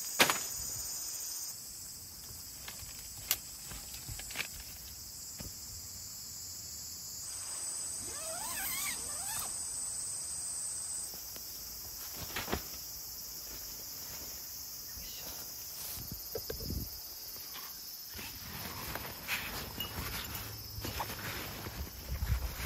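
Steady high chirring of summer insects, with scattered light knocks and rustles throughout and a short wavering call about eight seconds in.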